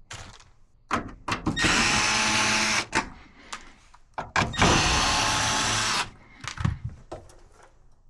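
Cordless drill or nut driver running in two bursts of about a second and a half each, with short clicks and knocks in between.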